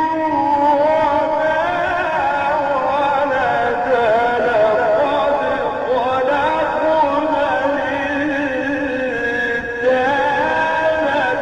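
A male reciter chanting Quranic verses in the melodic Egyptian tajweed style, holding long, slowly ornamented notes.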